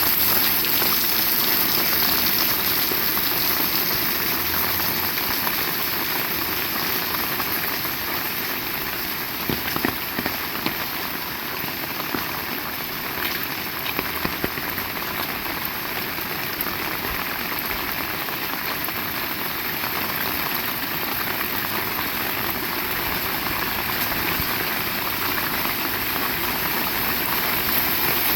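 Heavy rain falling steadily, with a few sharper drops or taps standing out around ten seconds in.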